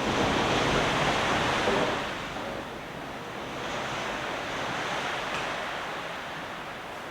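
Gale-force wind gusting, loudest in the first two seconds, easing, then swelling again.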